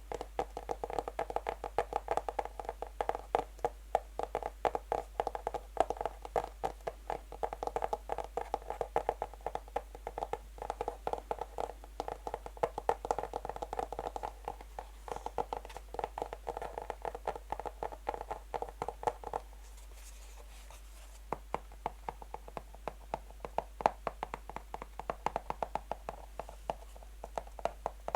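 Natural fingernails tapping fast on a box: a dense run of quick clicks with a hollow box resonance. About two-thirds of the way in, the taps thin out and lose most of the resonance, pause briefly, then carry on more sparsely.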